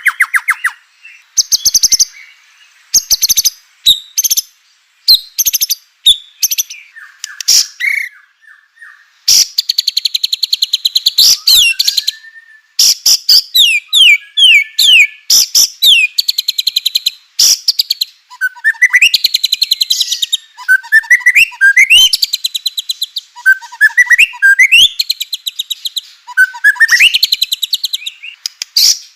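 White-rumped shama (murai batu) singing: fast, loud rattling trills in repeated bursts, mixed with short whistled notes that glide up and down.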